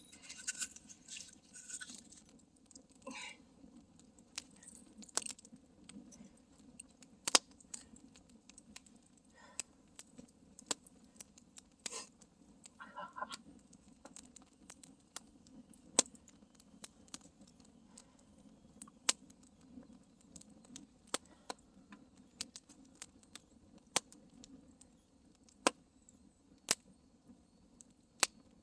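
Wood campfire crackling, with irregular sharp pops every second or so over a low steady rush of the flames; one pop about seven seconds in is the loudest.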